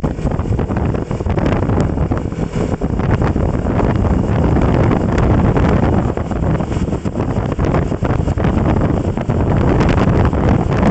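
Wind buffeting the microphone of a moving rider or vehicle: a continuous low rumble broken by irregular crackling gusts.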